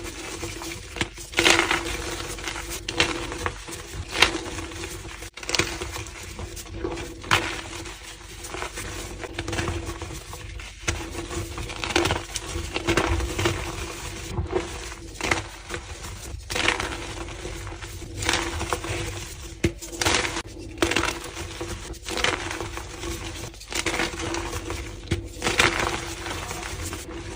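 White gym chalk being crushed, crunching again and again at irregular intervals, about one crunch every second or two. A faint steady hum runs underneath.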